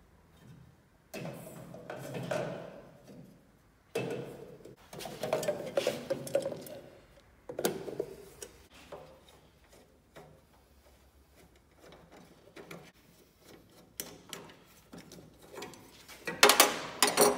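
Parts being handled on a workbench: irregular rustling, knocks and light clinks of metal and glass, ending in a quick cluster of loud sharp clicks.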